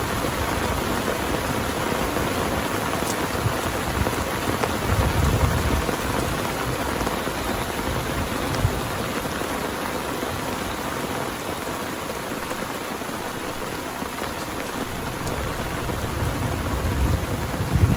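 Heavy rain falling steadily, with low rumbles of thunder about five seconds in and again near the end.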